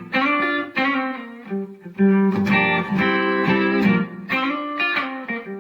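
Electric guitar chords and notes played through a Donner Verb Square reverb pedal set to its studio reverb mode. The chords are picked one after another, each ringing out into a springy, bouncy reverb tail.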